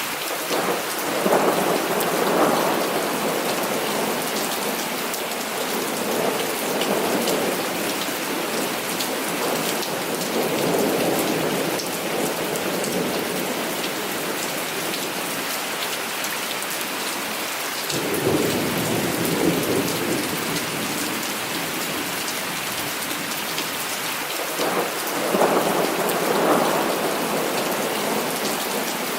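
Heavy rain falling steadily, with thunder rolling in several long rumbles: near the start, through the middle, about eighteen seconds in, and again near the end.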